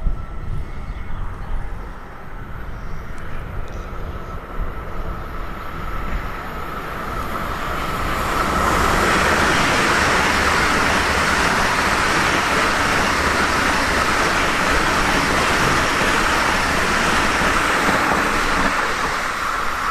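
ICE high-speed electric train approaching and passing close by at speed: a rush of wheels on rails and air that grows from about six seconds in and stays loud and steady from about nine seconds as the carriages go by, with a steady high whine underneath.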